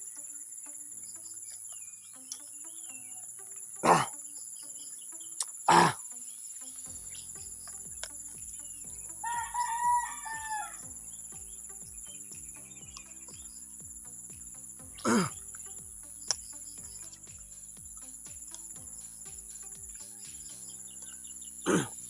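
A rooster crows once, about ten seconds in, over a steady high hiss. A few brief, sharp, loud knocks stand out, louder than the crow.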